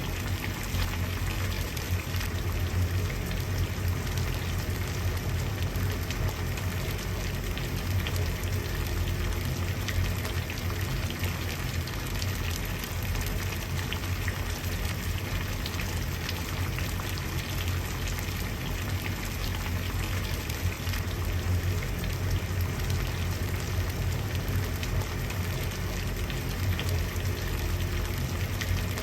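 Water at a steady boil: dense, continuous bubbling and popping over a low, steady rumble.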